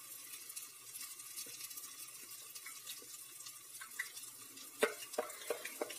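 Bakwan vegetable fritter deep-frying in a pot of hot oil: a steady low sizzle with fine crackling, and a few soft clicks in the last couple of seconds.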